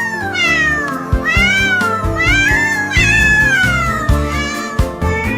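Cat meowing over and over, a string of drawn-out meows that rise and fall in pitch, over background music with a steady beat.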